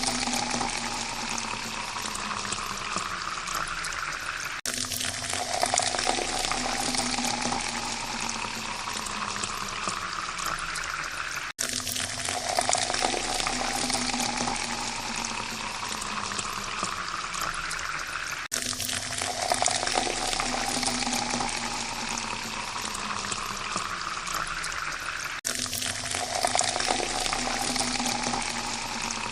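Water poured into a glass in a steady stream, its pitch rising as the glass fills. The pour repeats about every seven seconds, with an abrupt break between pours.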